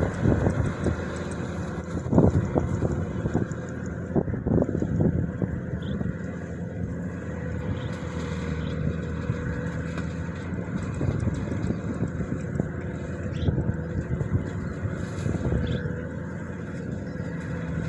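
Combine harvester running steadily with a constant mechanical hum, with a few louder knocks in the first few seconds.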